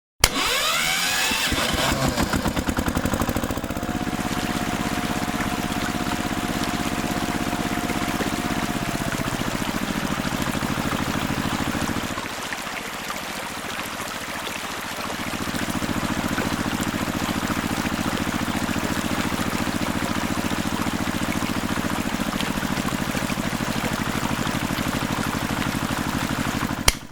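A small motor running steadily with a rapid fine pulsing, going quieter for about three seconds midway and then picking back up.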